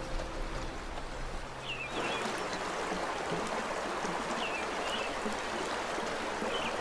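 River water rushing, a steady hiss that comes up about two seconds in, with a few short high chirps over it. Low sustained music tones fade out at the start.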